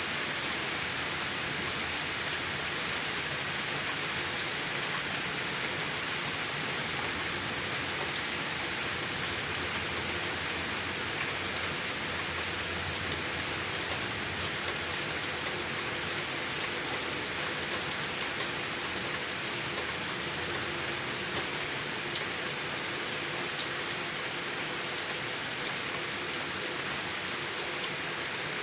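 Rain falling steadily and rainwater running and gurgling, with many fine drop patters and an even rushing hiss.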